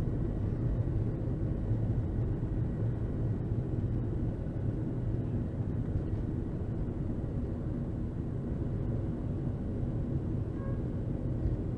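Boeing 737 airliner heard from inside the passenger cabin: a steady, deep rumble of engines and rushing air, with no sudden changes.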